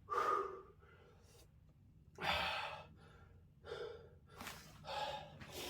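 A man breathing hard, with several heavy breaths and gasps spaced through a few seconds, out of breath from swinging an axe at a log that will not split.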